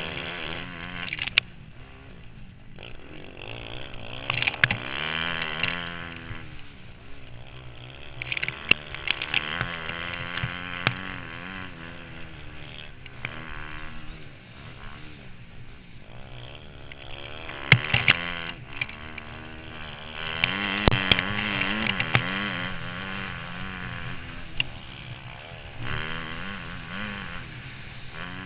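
Motocross bike engine revving up and down over and over as it accelerates and backs off, picked up by a helmet-mounted camera, with occasional sharp knocks.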